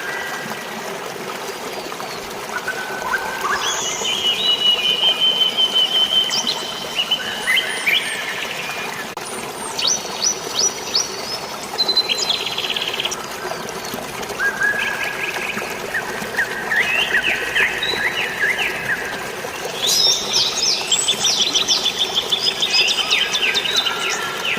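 Several birds singing short whistled and trilled phrases, one after another and sometimes overlapping, over a steady rush of flowing water and rain.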